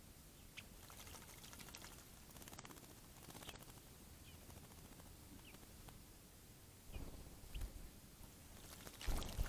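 Small songbirds bathing in a bird bath, splashing the water, with two louder splashes near the end and a few faint, short chirps.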